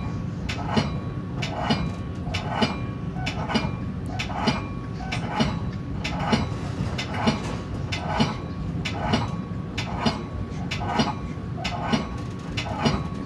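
Metra commuter train's steel wheels clicking over rail joints in a steady rhythm, a pair of clicks about once a second, over a continuous low rumble.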